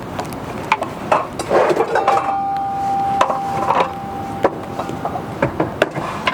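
Irregular wooden knocks and clinks, like things being handled, over a steady hiss, with a steady pitched tone held for about two and a half seconds midway.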